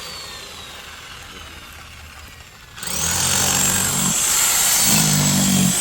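Electric power tool winding down with a falling whine, then switched on again about three seconds in: the motor's whine rises quickly and it runs loud and steady.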